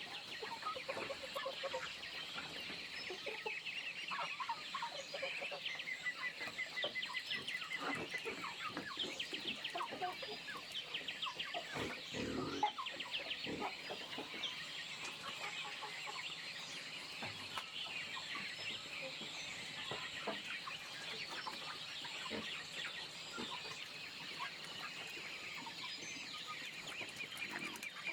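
Chickens clucking amid many short, high bird chirps, with a louder, lower sound about twelve seconds in.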